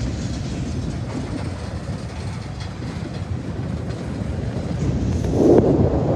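CSX coal hopper cars rolling past, a steady rumble of steel wheels on the rails that gets louder about five seconds in.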